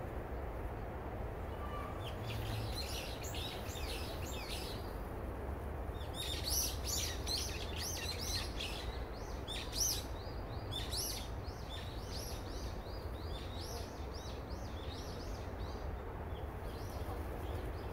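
Small birds chirping in quick series of short, high chirps, in bursts from about two seconds in until near the end, over a steady low background rumble.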